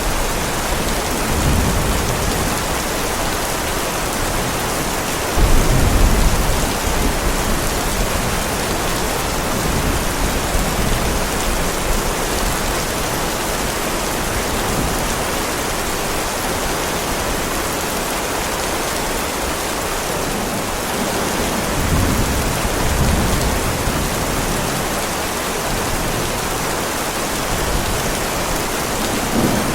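Heavy rain falling steadily on a driveway, with low rumbles of thunder rising through it several times, the loudest starting suddenly about five and a half seconds in.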